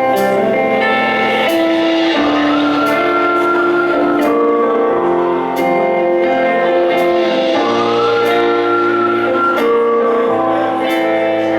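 Live band playing a song's instrumental opening: sustained chords that change every second or two, under a high melody line that slides up into its notes.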